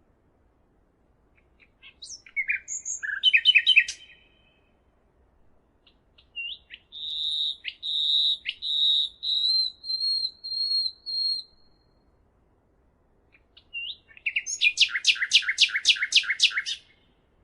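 A songbird singing three phrases with short pauses between: first a quick jumble of varied notes, then a run of whistled notes held at one high pitch and rising slightly, and near the end a fast trill of about ten sharp notes.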